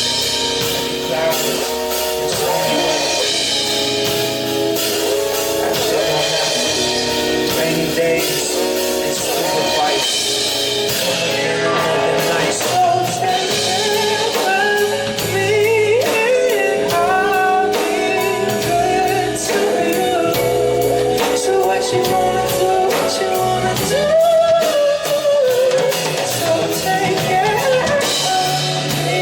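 Live band performance of a soul-pop song: a male lead voice singing a wandering melody over electric guitar and drum kit.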